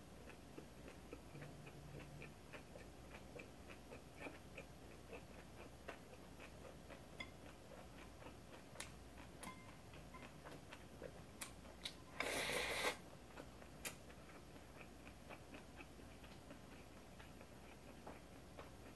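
Faint, quick clicking and smacking of close-up chewing on a mouthful of kimbap. About twelve seconds in, a short louder rush of noise breaks in.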